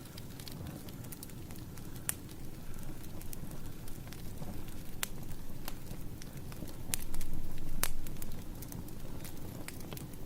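Wood fire crackling: a steady low rumble of burning logs with scattered sharp pops and snaps. It swells louder for about a second near seven seconds in.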